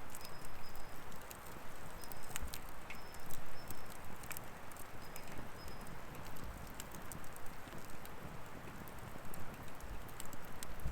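Burning firewood crackling: a steady hiss with scattered sharp pops and snaps at irregular intervals.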